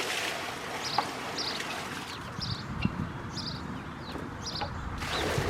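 A small bird chirping over and over in short high notes, about one to two a second, over a steady rushing background noise.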